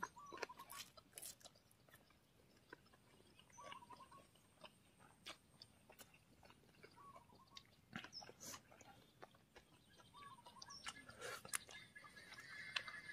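Faint chewing of a mouthful of instant noodles, with soft scattered mouth clicks. A short warbling call repeats about every three seconds in the background.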